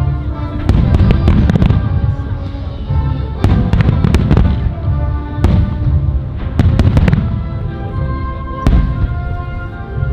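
Fireworks bursting in volleys of sharp bangs and crackle, in clusters about a second in, around four seconds and around seven seconds, with single bangs between. Music with sustained notes plays throughout.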